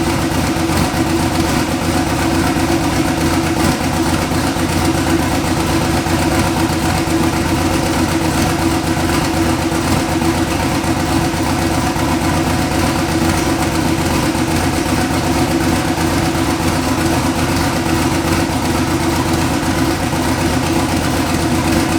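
A vehicle engine running at a steady speed, a constant even drone that does not rise or fall.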